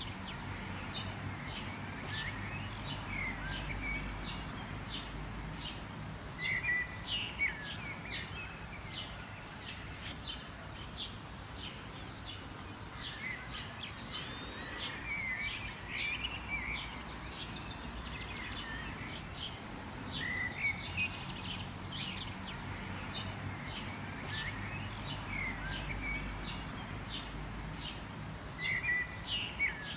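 Many birds chirping and calling in quick, overlapping short notes, with a few sliding whistled phrases, over a steady low background rumble.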